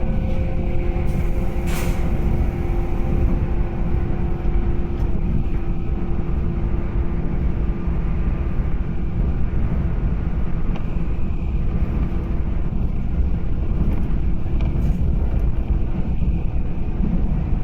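JR 185 series electric train running through a station: a steady, loud rumble of wheels on rail with a steady whine, and a few faint clicks.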